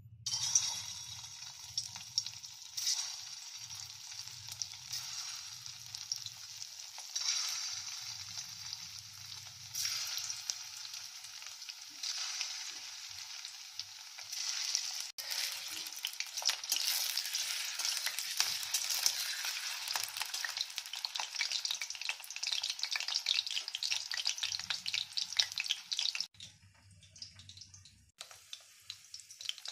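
Chicken kofta balls frying in hot oil in an aluminium kadai: a steady sizzle full of small crackles, starting as the balls go in and growing stronger partway through. It cuts off suddenly a few seconds before the end.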